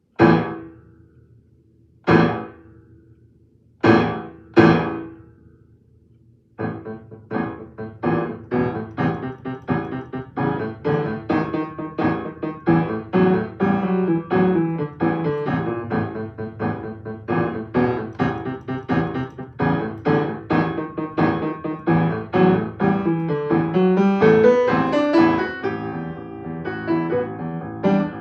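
Solo piano: four loud single chords struck about two seconds apart and left ringing, then from about six and a half seconds in a fast, unbroken run of repeated notes and chords, with a rising line of notes near the end.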